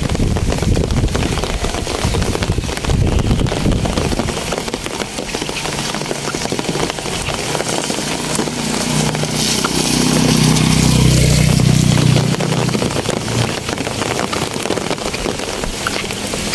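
Steady rain falling. A motorcycle engine grows louder from about eight seconds in and fades out after about thirteen seconds, passing through the rain.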